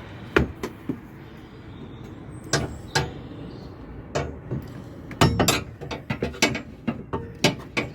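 Metal clicks and clunks of a wheel brace turning the securing screw that holds a Citroen Berlingo van's spare wheel cradle under the floor, irregular at first and coming thick and fast over the last few seconds.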